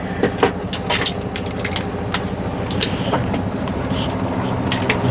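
Semi-truck's diesel engine running, heard from inside the cab, with irregular clicks and rattles from the cab.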